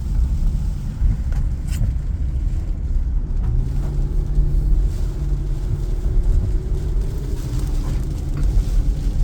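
Road noise inside a moving car: a steady low rumble of tyres and engine, joined by a faint steady hum from about three and a half seconds in.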